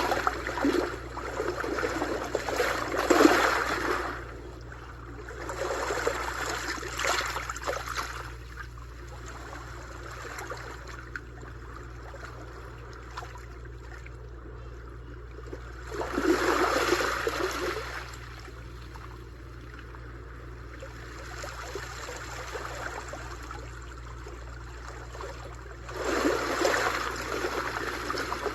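Sea waves washing onto a shore, swelling and falling back: louder surges at the start, about six seconds in, about sixteen seconds in and near the end, with a quieter wash of water between.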